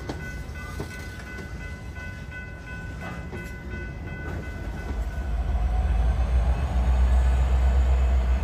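A freight train rolling past, with a few thin steady tones over the rumble of its cars. From about five seconds in, the low rumble of Norfolk Southern diesel locomotives builds and gets louder as they approach.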